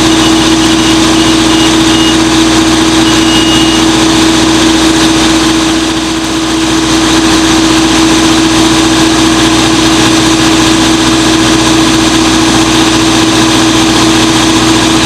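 An engine running steadily at idle close by, with a strong constant hum; the level dips briefly about six seconds in.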